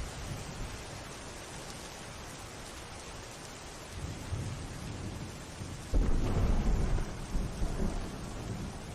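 Steady rain falling, with low thunder rumbling; about six seconds in a sudden loud crack of thunder rolls and fades over the next two seconds.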